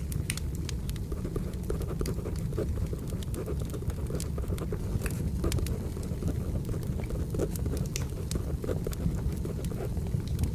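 Crackling wood fire: a steady low rumble with frequent small, irregular pops and snaps, layered with the sound of a pencil writing on paper.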